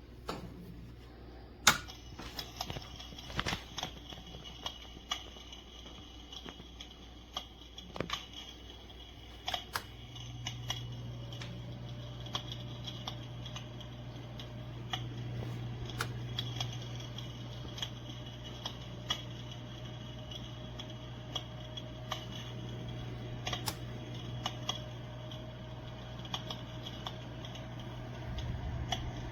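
Electric fireplace heater running: its fan hums steadily, the hum growing stronger about ten seconds in, under the irregular sharp clicks of its simulated fire-crackling sound.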